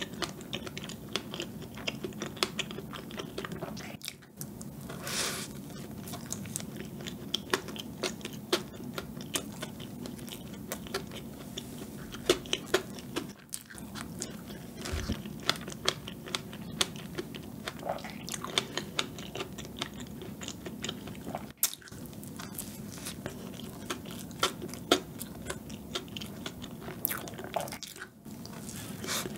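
Close-miked chewing and biting of chocolate cream cake and fresh strawberries: soft, wet mouth sounds with many small clicks and smacks.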